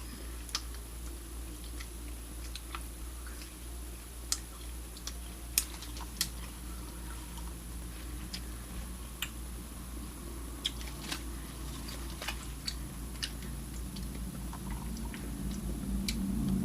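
A person chewing a piece of beef jerky, with scattered small sharp clicks and smacks from the mouth, over a steady low hum.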